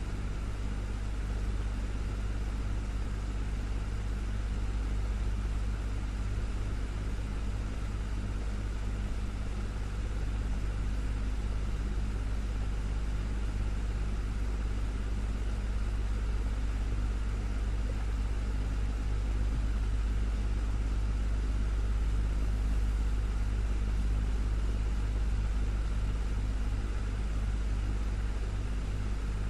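Desktop fan running steadily: a constant low motor hum under an even rush of moving air.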